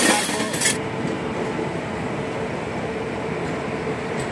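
Passenger train coach running on the rails, heard from its open doorway as a steady, even rumble with a faint steady hum. Under a second in, a loud hiss over everything stops suddenly.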